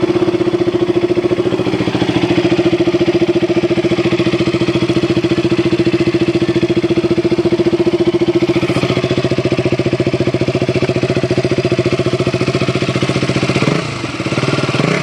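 KTM RC 200's 199.5 cc single-cylinder engine idling steadily through its hidden underbelly exhaust, freshly started. The level dips slightly near the end.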